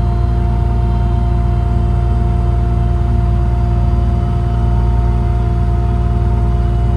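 Ingersoll Rand hydraulic air compressor on a service truck, running steadily and building air pressure, together with the truck's diesel engine running under it. The sound is an even mechanical drone with a low rumble and a steady hum.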